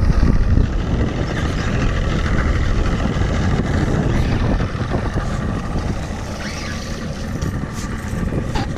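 A boat's motor running steadily at trolling speed, with wind buffeting the microphone.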